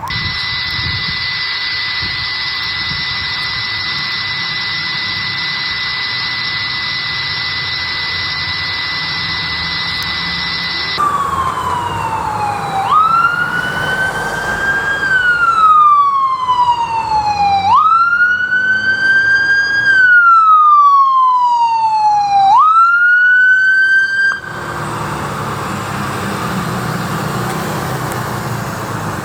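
Emergency vehicle siren. For about eleven seconds a steady high tone sounds over a hiss. Then a wail rises and falls slowly three times and cuts off suddenly, leaving engine and road noise from passing traffic.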